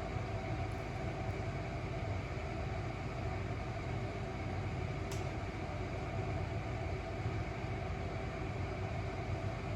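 Steady low rumble and hum of background noise, with a single faint click about five seconds in.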